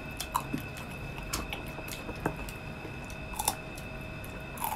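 Close-miked chewing and wet mouth smacks of a person eating crispy pata (deep-fried pork leg) by hand, in scattered short clicks.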